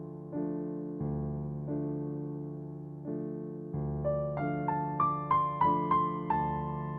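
Background music: soft piano playing slow, sustained chords, with a short run of higher melody notes climbing from about four seconds in.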